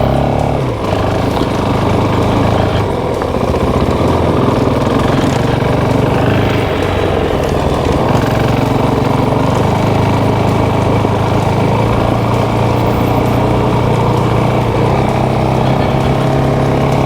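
Motorcycle engine running steadily while being ridden, its pitch shifting up and down several times.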